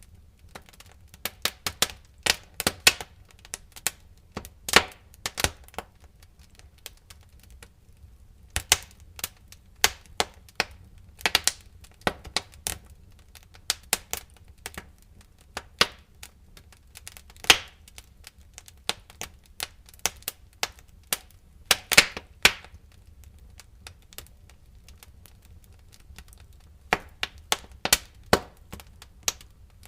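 Wood fire in a fireplace crackling and popping: irregular sharp snaps, sometimes several in quick succession, over a faint low rumble of the flames.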